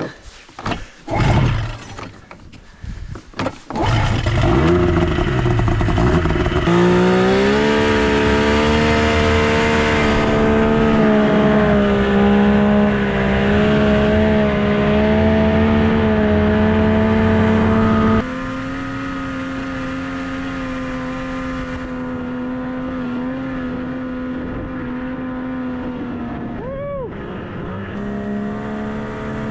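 Old Yamaha snowmobile engine under way. After a few seconds of rough knocks and gusts it picks up speed about 7 s in and holds a steady high drone. It eases off and runs quieter at about 18 s, with a brief dip and recovery in pitch near the end.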